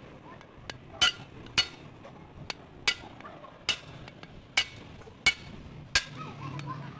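Sharp metal-on-metal taps and clinks from tools working on motorbike engine parts, about eight strikes at irregular intervals, each ringing briefly.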